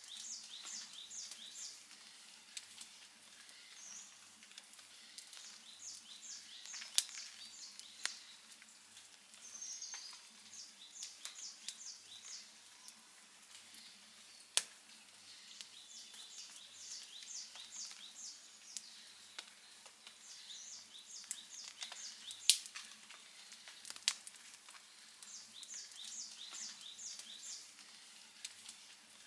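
Wood fire crackling softly, with a few sharp pops. A group of short, high chirps repeats about every five seconds.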